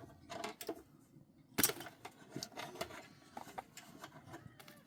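Irregular clicks, knocks and rubbing, with one sharp, louder knock about a second and a half in.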